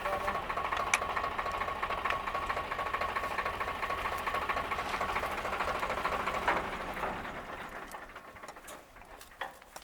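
Tractor-driven wheat thresher running with a fast, even mechanical beat, then slowing and fading away from about seven seconds in as the machine runs down.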